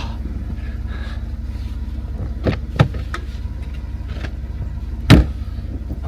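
Jeep Wrangler driving along a rough trail, its engine a steady low drone, with three sharp knocks, the loudest about five seconds in.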